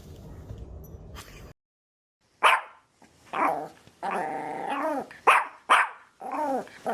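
A dog barking in short, sharp barks, with one longer, drawn-out growling call of about a second in the middle.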